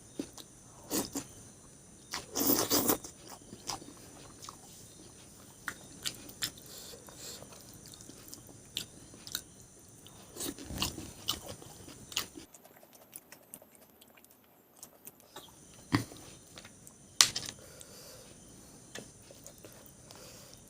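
A person eating at close range: chewing and biting, with scattered sharp clicks and a few short louder bursts of mouth noise.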